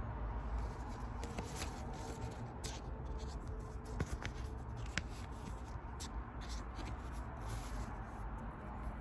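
Pokémon trading cards being handled: soft rustling and sliding of cards, with two sharp taps about four and five seconds in.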